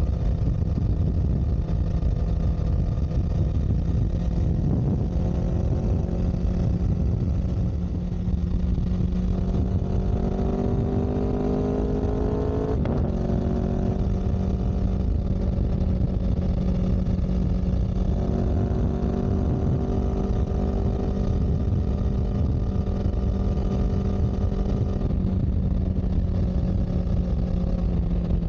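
A vehicle engine running steadily over a heavy low rumble. Its pitch climbs between about ten and thirteen seconds in as it speeds up, then levels off.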